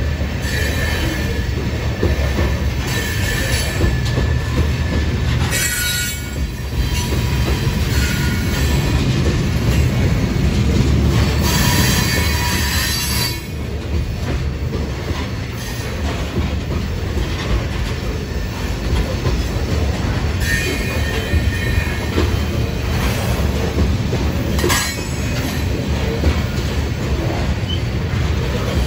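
Freight train of covered hopper cars rolling past close by: a steady low rumble of steel wheels on the rails, broken several times by brief high-pitched wheel squeals.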